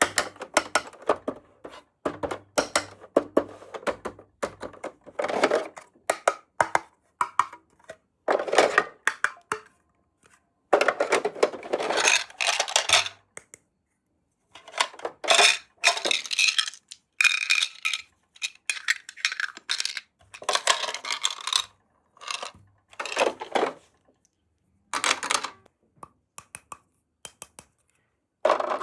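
Small hard toy pieces being handled: irregular clicks, clinks and clattering with bursts of rustling, separated by short pauses.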